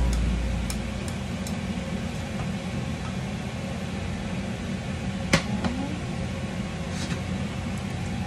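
Non-stick frying pans and chopsticks clinking and scraping a few times, one knock louder about five seconds in, as stir-fried vegetables are tipped from one pan into another and mixed, over a steady kitchen hum.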